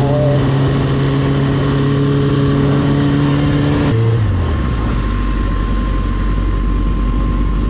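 Motorcycle engine running at steady revs with wind and road noise. About four seconds in the engine note drops in a couple of steps and settles to a low, steady hum.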